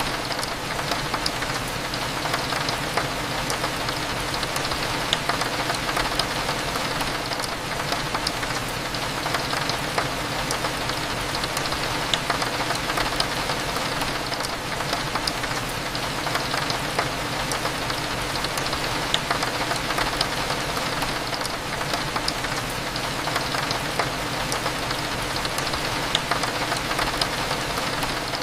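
Steady rain with many small drop ticks, over a low steady hum.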